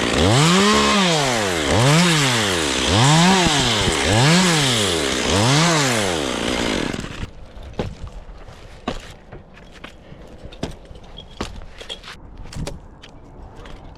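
Two-stroke chainsaw running, its engine speed rising and falling in even swells about once every second and a bit. It stops about seven seconds in, leaving scattered light knocks and clicks.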